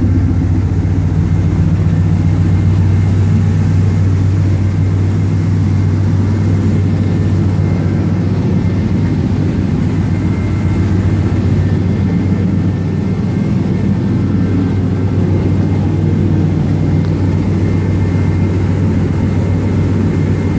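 The engine of a 1977 Corvette restomod idling steadily, with a deep, even note and no revving.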